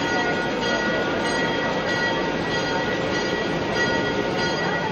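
Diesel locomotive hauling passenger cars slowly up to the platform: a steady rumble of engine and rolling wheels, with a faint, thin, steady high-pitched whine over it.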